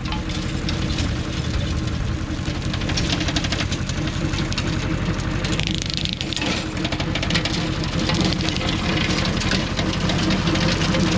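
Goldoni 933 RS DT tractor's diesel engine running steadily under load while its chain weeder's 13 mm chains flail through woody rockrose, with a dense constant clatter of chain and debris impacts.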